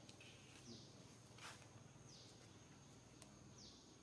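Faint outdoor ambience: a steady high insect drone, with a short falling chirp repeating about every two seconds. A soft rustle comes about a second and a half in, and a light click near the end.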